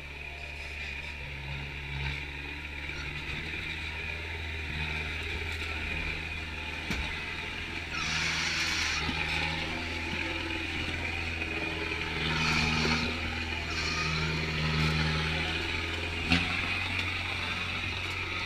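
Kubota turbo diesel in a Suzuki Samurai crawling over rocks at low revs, with short throttle surges. Louder bursts of higher-pitched noise come about eight seconds in and again a few seconds later.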